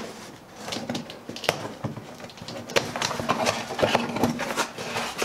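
Handling of packaging as a large brake disc is worked out of its box: irregular rustling with many clicks and knocks, one sharper knock about a second and a half in.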